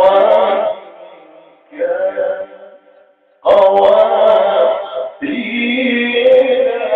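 A man reciting the Quran in the melodic, drawn-out tajweed style, holding long sung notes. A short phrase fades out and a brief pause comes about three seconds in, then a long sustained phrase begins.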